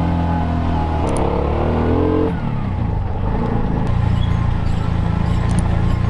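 Vehicle engine accelerating. Its pitch rises about a second in, drops back about a second later as if shifting gear, then runs steady.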